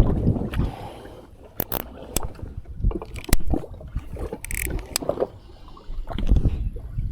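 Water sloshing against a small fishing boat's hull, with scattered knocks and scrapes on board. A louder rumble dies away about a second in.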